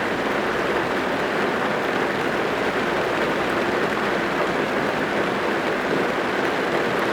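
Steady rain drumming on a car's roof and windows, heard from inside the car as an even, dense patter with no let-up.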